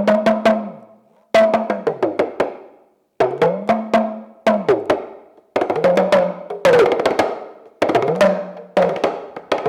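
Hand drum played in quick rhythmic phrases of sharp strokes, each phrase ringing with a low note whose pitch bends up and then back down. Short pauses fall between the phrases.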